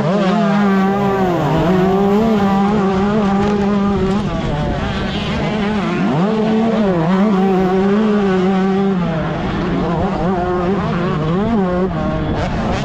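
125cc two-stroke motocross bike engine revving hard and held high, with quick rising sweeps of pitch as the throttle opens at the start and again about six seconds in, and short dips in between.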